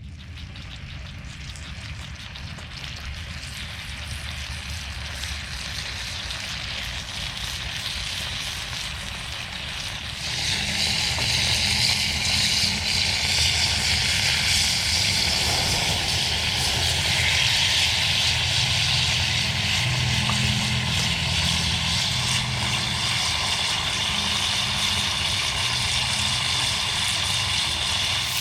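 Wood fire burning in a Solo Stove Titan with a steady low rumble. About ten seconds in, a loud, steady sizzle of food frying in the pan over the fire joins it and carries on.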